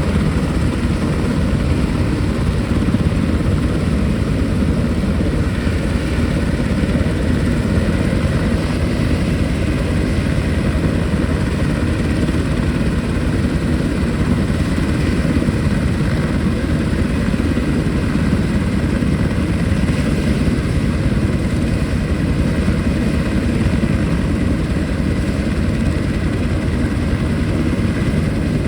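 Military helicopter running, its rotor and turbine noise loud and steady: a dense low rumble with a faint steady whine above it.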